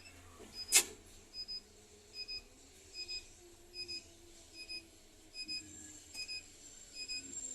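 A bus's dashboard beeper in the Scania K310's cab sounding short, high double beeps about every 0.8 seconds, with the engine running low underneath and a sharp click about a second in.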